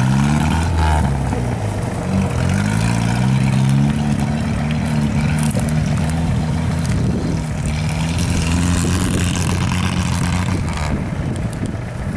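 An off-road 4x4's engine revving under load, rising and falling in pitch several times in the first few seconds and then pulling more steadily, before easing off near the end.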